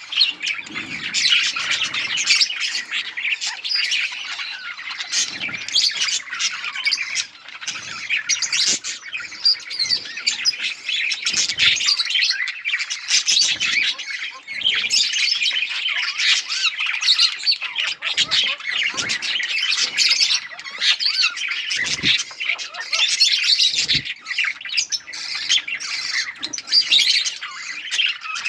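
A flock of budgerigars chirping and squawking without a break in dense, overlapping chatter, with a few faint knocks now and then.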